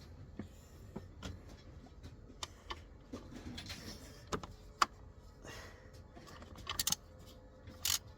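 Metal hand tools clicking and clinking against metal fittings as a part is being undone, with a sharp click about five seconds in and short rattling clusters of clicks near the end.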